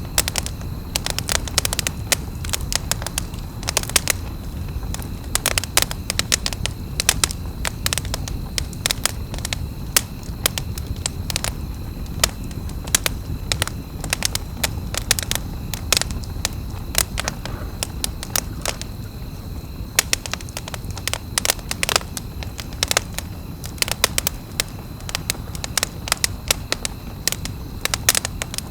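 Wood campfire burning, with dense, irregular sharp crackles and pops over a steady low rumble of the flames.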